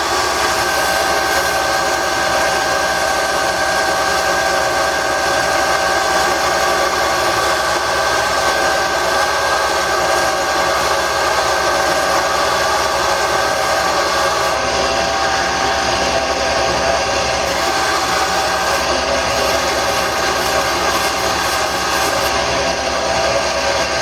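Wood lathe running steadily, its motor giving a constant whine over a steady rushing noise, as a spinning wooden handle is sanded with the next grit of sandpaper.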